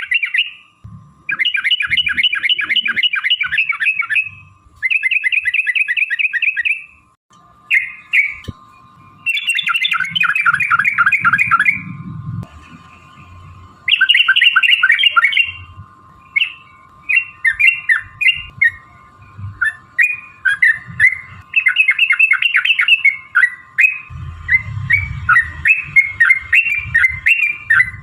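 Yellow-vented bulbuls (trucukan) calling in fast rolling chatter, several phrases of about two to three seconds each, breaking into quicker, choppier separate notes in the second half. A steady thin tone sits underneath for much of the time.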